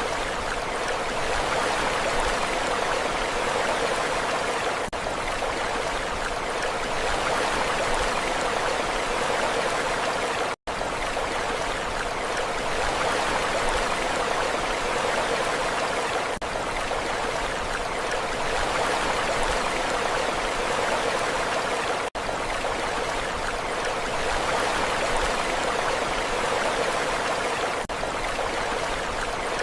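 Steady rushing water noise, even in level without rising and falling swells. It is broken by brief dropouts about every six seconds, the deepest a near-silent gap around the middle.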